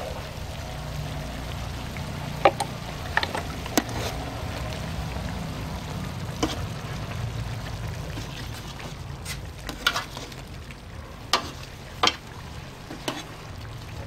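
Braised pork sizzling and bubbling in a pot as its sauce reduces, stirred with a utensil that clicks sharply against the pot several times. A steady low hum runs beneath.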